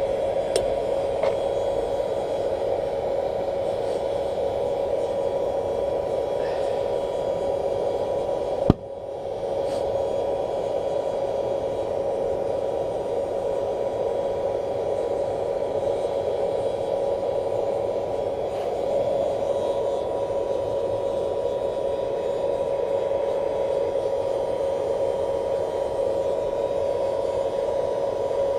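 Blower forcing air into a charcoal-briquette paint-can furnace: a steady rushing of air with a constant hum. There is a single sharp click about nine seconds in.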